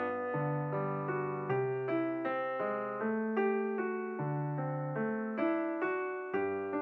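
Background music: solo piano, single notes struck a few times a second over held bass notes.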